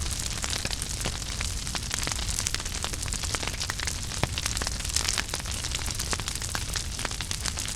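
Wood fire burning in a fireplace: a steady low rumble and hiss with frequent irregular crackles and pops.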